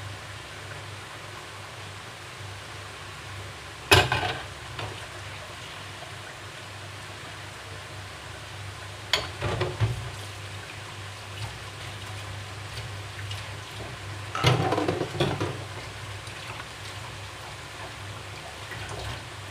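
Kitchen clatter: a metal utensil knocking against cookware in three short bouts, about four, nine and fourteen seconds in, over a steady low hum.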